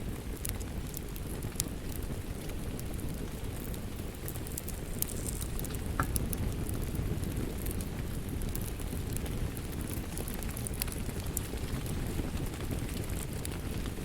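Wood fire crackling: a steady low rumble of flames with scattered sharp pops and crackles.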